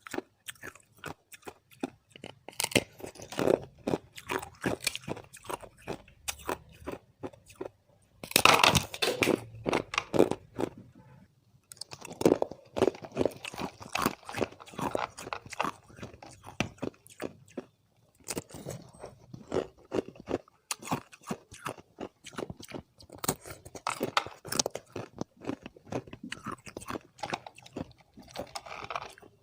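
Close-miked crunching and chewing of thin ice disks: rapid crackling crunches in runs, with a loud bite about eight seconds in and a few short pauses between mouthfuls.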